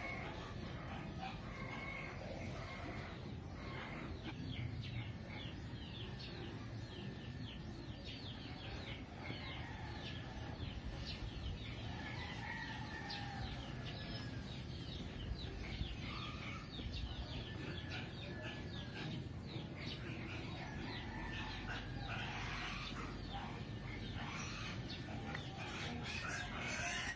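Birds calling in the background: a steady stream of short, quick chirps with a few longer calls, sounding like poultry.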